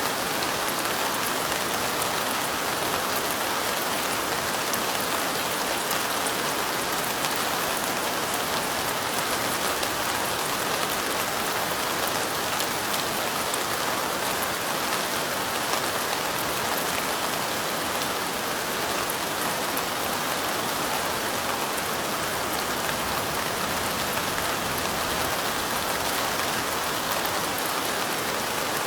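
Steady light rain: an even hiss scattered with the small ticks of single drops.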